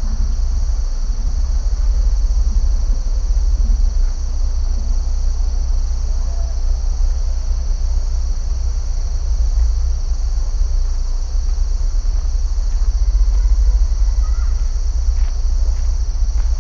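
A steady, high-pitched chorus of insects, cricket-like, over a strong low rumble. A few faint calls and clicks come in near the end.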